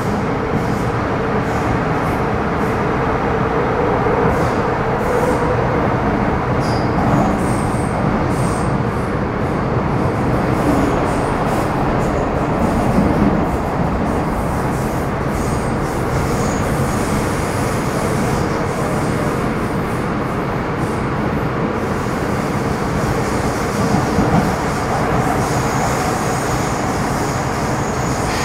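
MTR Metro Cammell M-Train (GEC GTO chopper EMU) heard from inside the car, running along the line with a steady rumble of wheels on rail. Brief faint high squeals come and go over it.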